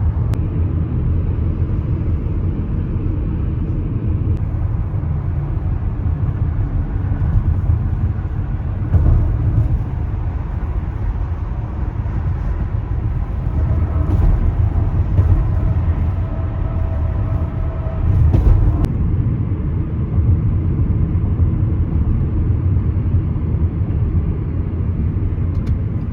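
A car driving, its steady low road and engine rumble swelling briefly a few times.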